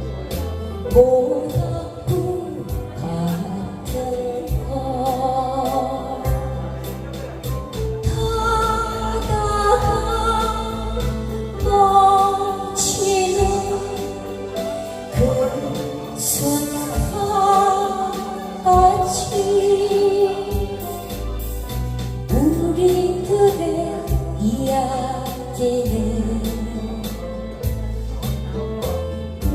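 A slow ballad-style song: a singing voice carries a wavering melody over a bass accompaniment.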